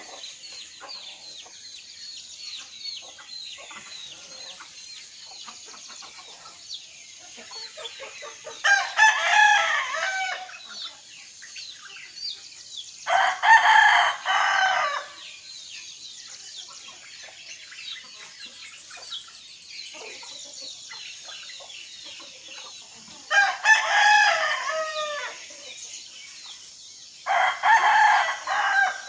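Rooster crowing four times, each crow a loud call of about two seconds, over constant chirping of small songbirds in the morning chorus.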